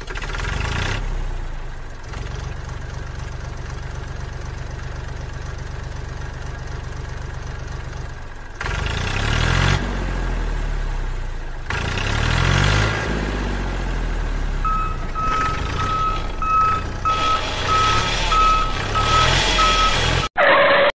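Homemade model tractor with an engine sound running steadily, then revving up and down again and again. A reversing beep sounds over it from about two-thirds of the way in.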